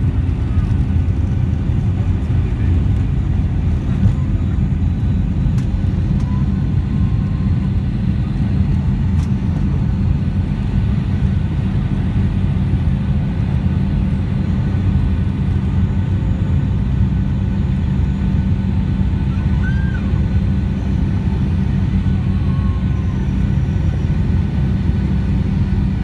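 Steady rumble of a Boeing 757's engines and airflow heard from inside the passenger cabin, with a few faint, short high chirps over it.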